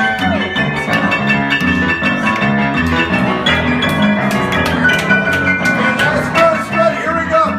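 Live rock-and-roll band playing an instrumental break: a steady, repeating bass line under drums, with long held lead notes above.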